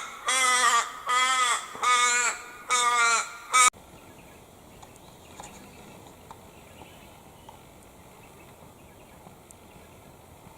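A large bird giving a series of four loud, drawn-out cawing calls, each rising and falling in pitch. After about four seconds the calls cut off abruptly, leaving faint bush ambience with small scattered chirps.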